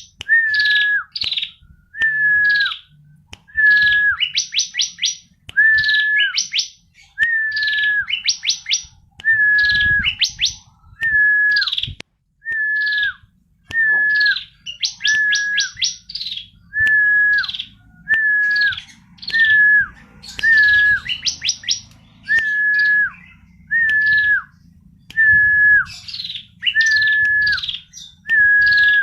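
Bar-winged prinia (ciblek) calling over and over: each phrase a short, steady whistled note that drops at its end, mixed with quick high upswept chirps, about one phrase a second.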